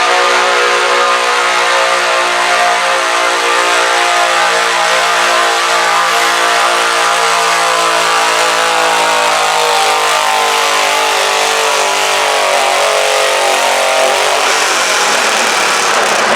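Stock garden tractor engine running hard under load as it drags a weighted stoneboat, its pitch slowly sinking as the load pulls the revs down. The engine note thins out into a rougher hiss near the end.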